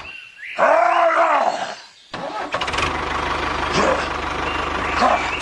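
A small engine running with a steady low chugging. It drops out for about two seconds, during which a short loud sound rises and falls in pitch, then resumes about two seconds in.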